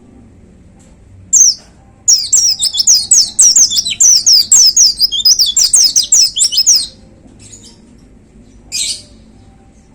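White-eye (pleci) singing: one short high chirp, then a rapid run of high, falling notes lasting about five seconds, and one more short call near the end.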